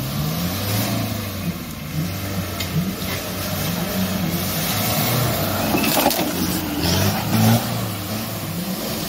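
Off-road 4x4's engine revving hard under load, its pitch rising and falling over and over as the vehicle forces its way through mud.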